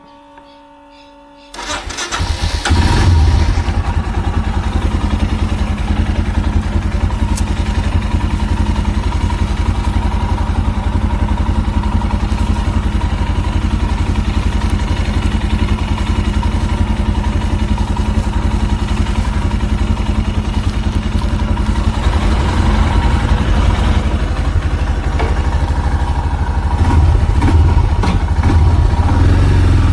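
An engine starts about a second and a half in, briefly revs, then runs steadily with a dense low pulse, growing a little louder near the end.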